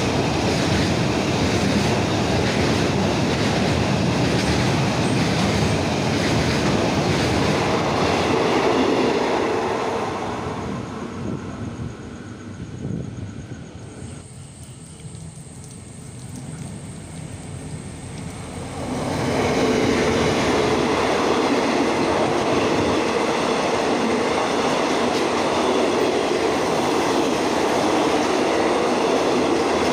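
A container freight train passes close by at speed, its wheels rumbling and clattering on the rails, then fades away about ten seconds in. After several quieter seconds the wheel noise of a passenger train passing at speed starts abruptly and carries on steadily.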